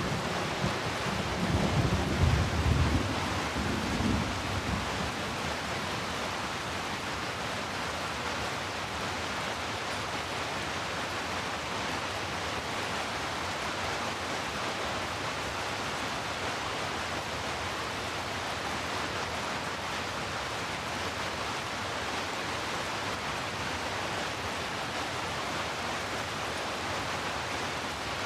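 Steady, even rainfall, with a low rumble of thunder dying away over the first few seconds.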